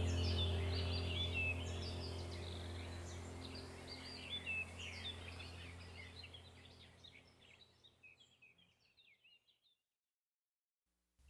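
Many birds chirping over a low steady hum, the whole sound fading out gradually until it is silent about seven seconds in.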